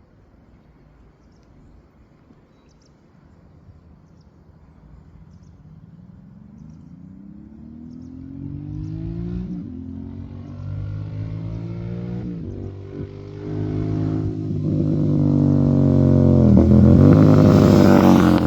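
Royal Enfield Interceptor 650's parallel-twin engine through an HP Racing aftermarket exhaust, accelerating through the gears as it approaches. The pitch rises, drops at each upshift and climbs again, getting steadily louder and loudest near the end.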